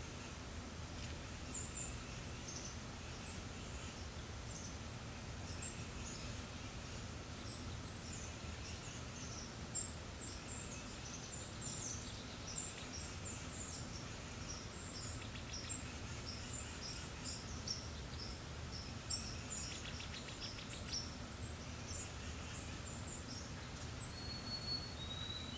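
Small birds chirping, many short high-pitched chirps in an irregular scatter over a steady low hum, with a brief rapid trill partway through and a short held whistle near the end.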